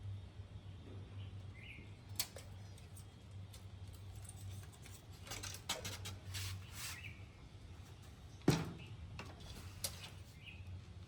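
Scattered light clicks and knocks from hand work, the sharpest about two seconds in and a louder knock near the end, over a low steady hum. Faint bird chirps sound now and then in the background.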